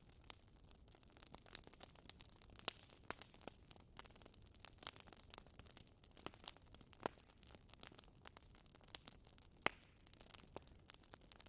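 Wood fire crackling softly, with irregular sharp pops and snaps and one louder pop late on.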